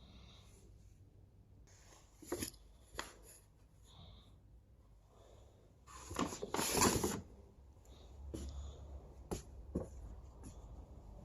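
Light kitchen handling sounds in a small room: a few scattered knocks and taps, and one longer noisy scrape about six seconds in, the loudest sound here.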